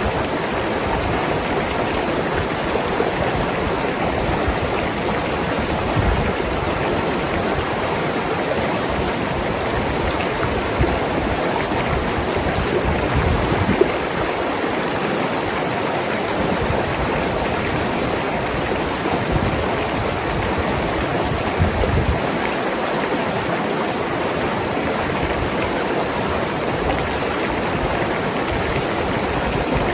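Mountain river rushing and gurgling over rocks, a steady, even wash of flowing water with small splashes here and there.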